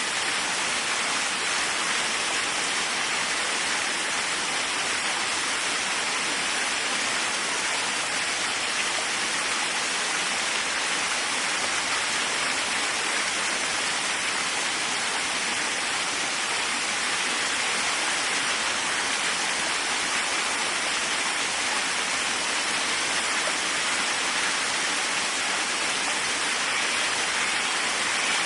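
Waterfall: water falling and splashing in a steady, even rush, strongest in the middle and upper range and thin in the low end.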